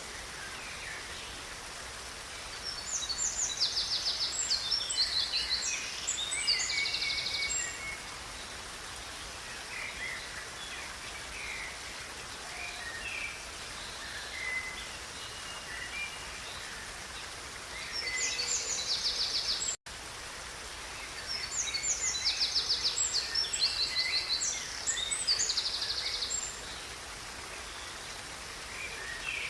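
River flowing steadily under songbirds singing: two spells of high, rapid trilling song with short chirps between, the same song phrase heard twice. The sound cuts out for an instant about twenty seconds in.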